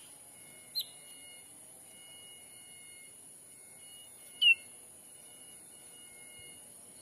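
Two short, sharp bird chirps, each falling in pitch: a faint one about a second in and a louder one about four and a half seconds in. Under them runs a steady high drone of forest insects.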